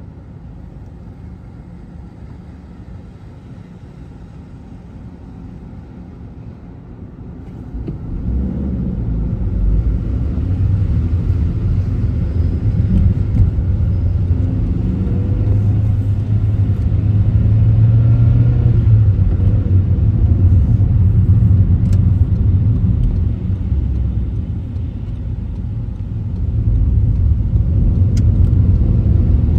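Car driving, with a low engine and road rumble that grows much louder about eight seconds in, eases briefly near the twenty-five second mark, then rises again.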